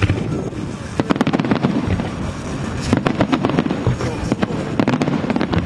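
Aerial fireworks bursting in a quick, irregular run of sharp bangs and crackles, thickest in the middle, over a low rumble, with voices underneath.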